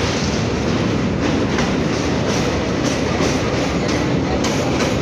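Train running across a steel truss railway bridge, heard from inside the carriage: a loud steady rumble of wheels on rails with a quick, uneven clatter over the joints.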